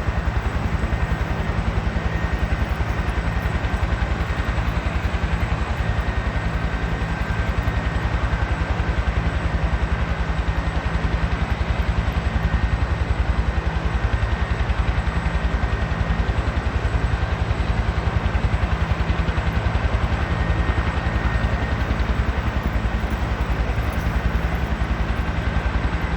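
Helicopter hovering close by: the rotor blades beat in a fast, even pulse, with a steady high turbine whine over it, loud and unbroken.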